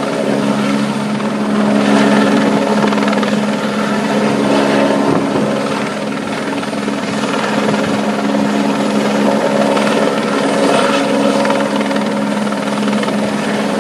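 Helicopter running with a loud, steady drone and a low hum.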